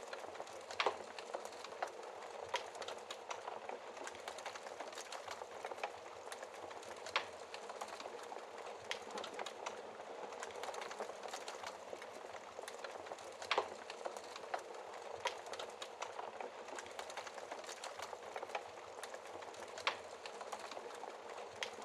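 Wood fire in a fireplace burning with a steady hiss and constant small crackles, broken by a few louder snaps several seconds apart.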